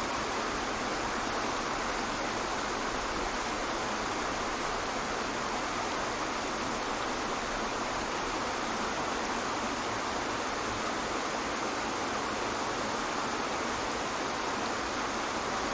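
Waterfall: a steady, even rush of falling water, strongest in the middle range and light on bass.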